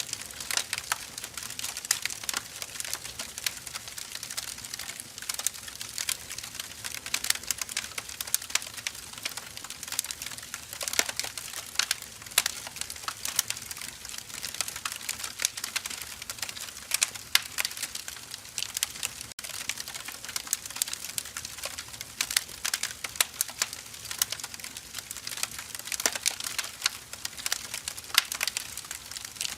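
Firewood burning in a fire, crackling with a constant, irregular run of sharp snaps and pops over a faint hiss.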